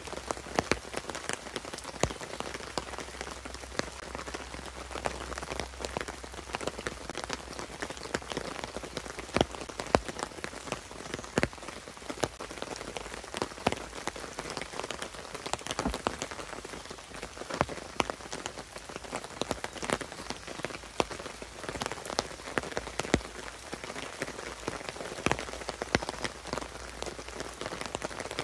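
Light rain pattering on a tarp overhead: a steady patter with irregular sharper taps from heavier drops.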